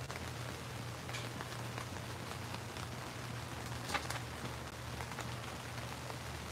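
Steady rain falling, with scattered drops ticking close by and one louder drip about four seconds in, over a low steady hum.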